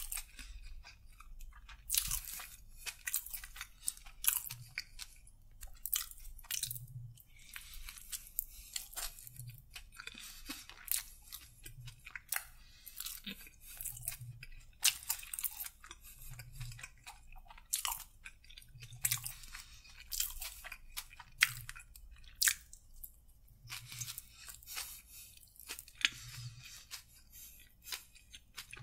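Close-miked chewing and biting of a chicken submarine sandwich with lettuce, full of quick, irregular crisp clicks.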